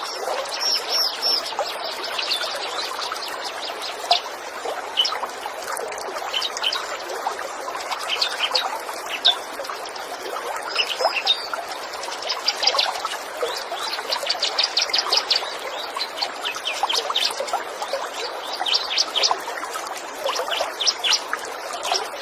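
Trickling water running steadily, with small birds chirping in quick, short high notes throughout.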